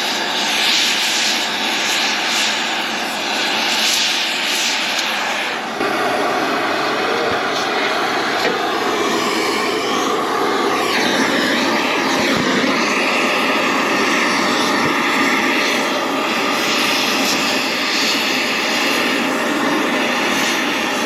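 Oxy-acetylene torch with a heating (rosebud) tip burning, its flame giving a loud, steady hiss. The hiss shifts abruptly about six seconds in. The torch is heating a bulldozer part so it can be bent back to let a pin go in.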